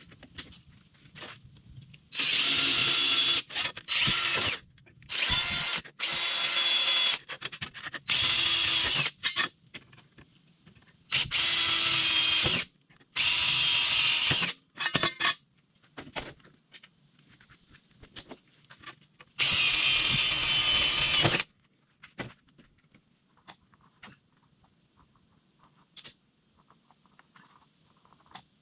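Power drill running in six short bursts of one to two seconds each, with a steady high whine, then only light clicks and handling noise.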